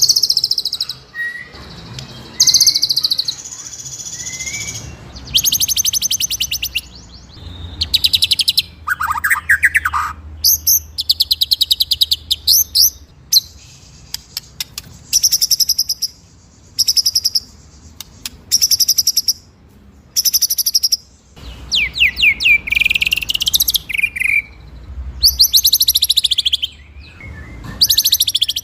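White-rumped shama (murai batu) singing in rolling bursts: rapid high trills of about a second each with short pauses between, and a lower swooping phrase about nine seconds in.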